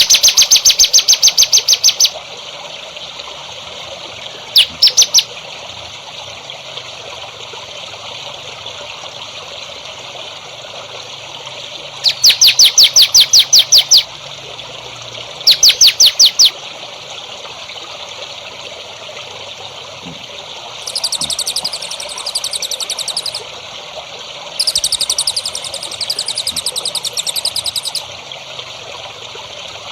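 Songbird calls in loud bursts of rapid repeated high notes, several separate runs with softer, higher trills near the end, over a steady trickle of running water.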